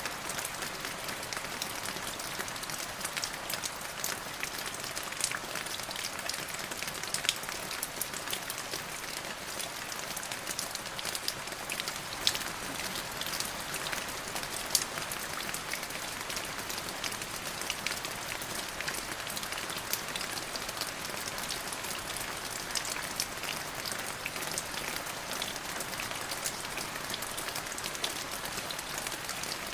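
Steady rain falling, with many individual drops ticking sharply against a constant hiss.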